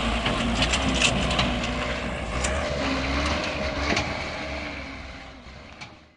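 A vehicle's low rumble with a cluster of sharp knocks in the first couple of seconds, then fading out.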